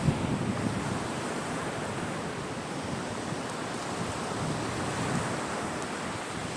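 Sea surf washing onto a beach in a steady wash of noise, swelling slightly about five seconds in, with wind buffeting the microphone.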